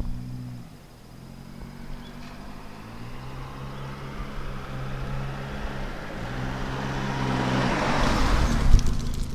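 Saab 900 engine running at a steady hum whose pitch steps up and down a few times, with road noise building to a loud rumble near the end.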